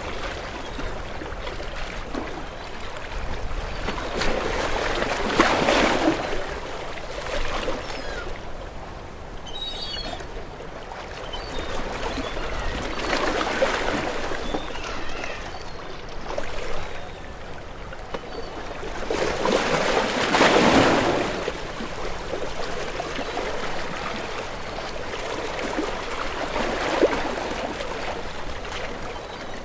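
Sea waves washing in and drawing back, swelling about every seven seconds, four times, the third the loudest.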